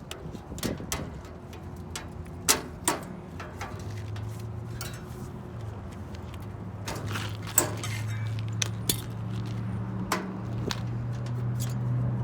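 Metal clinks and taps from hand tools and parts being handled during repair work. A low, steady hum comes in about four seconds in and continues.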